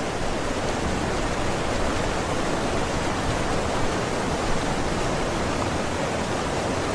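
Steady rushing of running water, a stream or waterfall, as an even hiss without breaks or changes.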